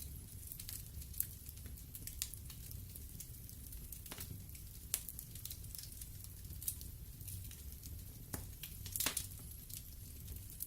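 Wood fire crackling in a fireplace: irregular sharp pops and snaps, a quick cluster of them about nine seconds in, over the low, steady rumble of the flames.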